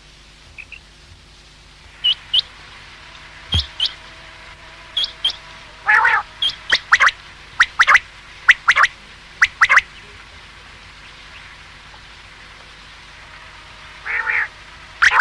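Common quail calling: short, sharp high notes in quick clusters of two or three, repeated over several seconds, then a pause of about four seconds before another cluster near the end.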